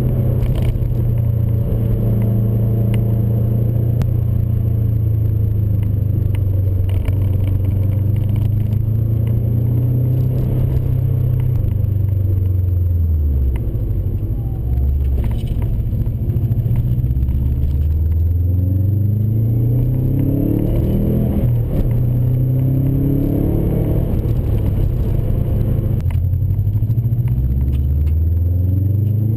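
1999 Subaru Impreza WRX's turbocharged flat-four boxer engine and turbo-back exhaust, heard close up. It cruises at a steady pitch, eases off about halfway, then accelerates again and again, its pitch climbing and dropping back several times.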